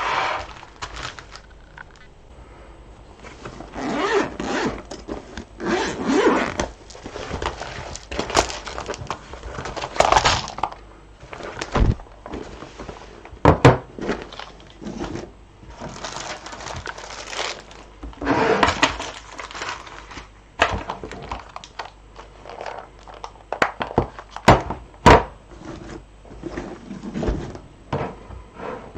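Beads being handled and sorted by hand: irregular clicks and light knocks with short stretches of rustling.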